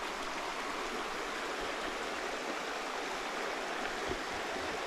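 Shallow stream running: a steady, even rush of flowing water.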